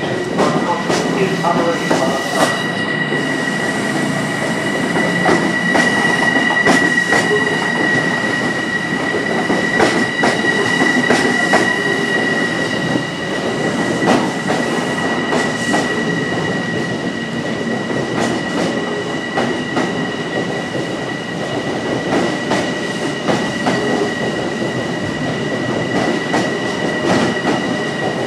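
Long Island Rail Road electric commuter train rolling past, wheels clicking over rail joints with a steady, high-pitched wheel squeal above the rumble.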